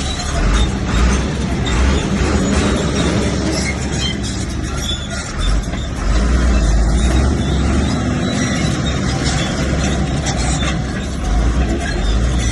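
Bulldozer's diesel engine running steadily, with clanking and rattling on top.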